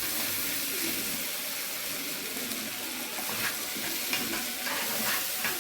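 Food sizzling steadily in a hot pan, with a spoon stirring and scraping now and then.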